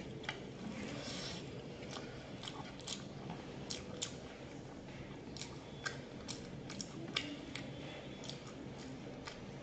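Close-up eating sounds: a person chewing, with many short sharp clicks and crunches at irregular intervals as they eat chicken curry and rice with crispy fried topping by hand.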